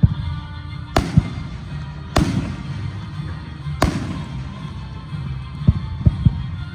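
Aerial fireworks exploding: three sharp, loud bangs a second or so apart, followed near the end by a quick run of softer, duller thuds, with music playing underneath.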